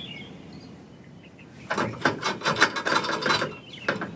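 Winch cable and hook being worked through a tight gap under a car, scraping and rattling against the metal in a rapid run of knocks for about two seconds, then one sharp click near the end.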